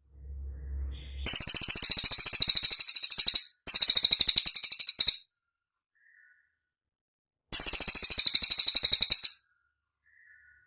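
Cililin songbird giving three very high-pitched, rapid rattling trills, each lasting one and a half to two seconds, with a short pause between the first two and a longer gap before the third.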